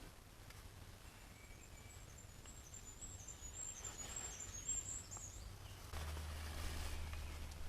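A small songbird singing a thin, very high-pitched run of quick notes for a few seconds. About six seconds in, a low rumble with a soft hiss sets in.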